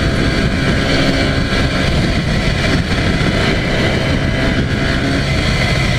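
Yamaha TZR250 (1KT) two-stroke parallel-twin engine running steadily at expressway speed, with a constant rush of wind and road noise.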